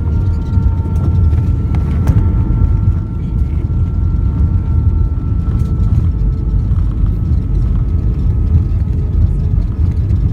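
A vehicle in motion: a loud, steady low rumble with a faint whine that drifts slowly down in pitch.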